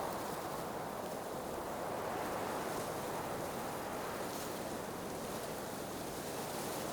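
Blizzard wind blowing steadily, a dense rushing noise that swells and eases slightly.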